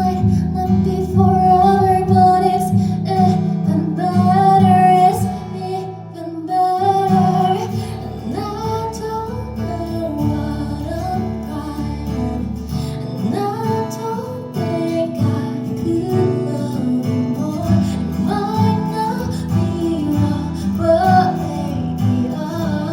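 Live pop music: a woman singing a cover song with guitar and a steady low bass accompaniment. The backing briefly thins and gets quieter about six seconds in, then picks up again.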